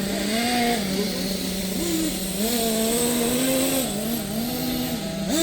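Small nitro glow engines of radio-controlled monster trucks running and revving up and down repeatedly as the trucks race.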